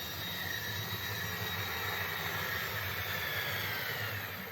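OO gauge model train running on its track: small electric locomotive motors whine steadily over the rumble of wheels on rail, and the whine drops slightly in pitch near the end.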